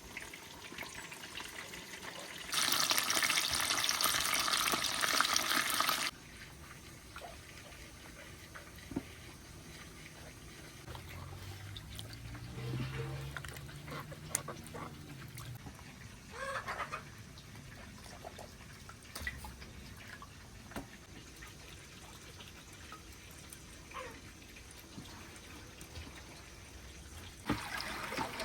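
Water running from a tap for about three seconds and then shut off, followed by scattered light knocks and clinks. The water comes on again near the end.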